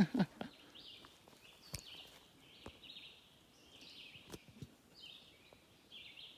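Woodland ambience: short buzzy chirps repeating about once or twice a second, with scattered light clicks and rustles and a brief louder low sound at the very start.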